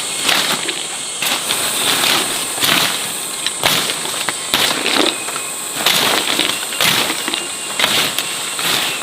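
Irregular crackles, snaps and knocks, many a second, over a steady high-pitched drone.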